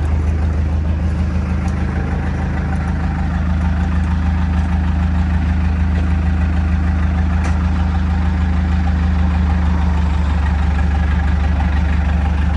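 Diesel engine idling steadily, an even, deep drone with no change in speed.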